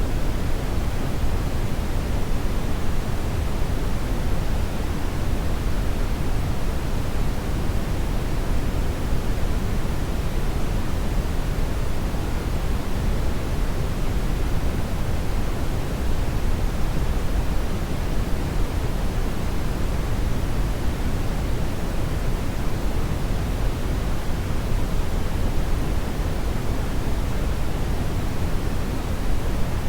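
Hair dryer running steadily: an even, unchanging rush of blown air, heaviest in the low end, with no motor whine standing out.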